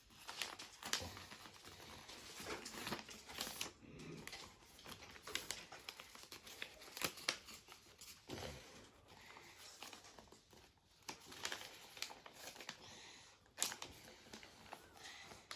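A sheet of paper being folded and creased by hand into a paper airplane: irregular crinkling, rustling and sharp crackles as the folds are pressed flat.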